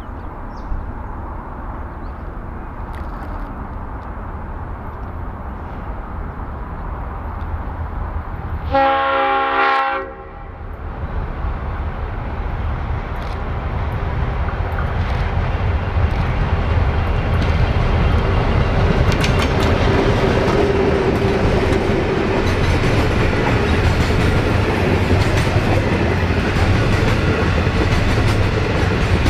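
An S-class diesel-electric locomotive's EMD V16 two-stroke engine rumbles as it approaches at the head of a grain train. It sounds its horn once, for about a second. The grain hopper wagons then roll past, their wheels clattering over the rail joints, louder as they come alongside.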